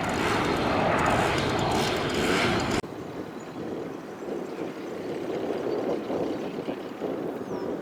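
Loud aircraft engine noise from an airliner close by, which cuts off abruptly about three seconds in and leaves a much fainter, steady rushing background.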